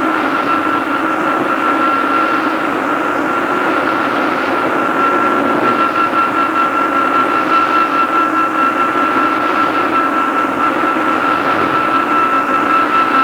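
Tokyu 2000 series electric train running at speed, a cassette-tape recording: steady running noise with a steady high whine held throughout.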